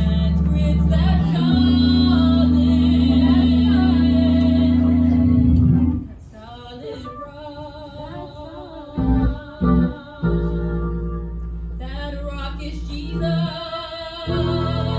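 Live gospel music: singing over instruments holding steady low notes. It drops much quieter about six seconds in, with a few short low notes, and builds up again after about ten seconds.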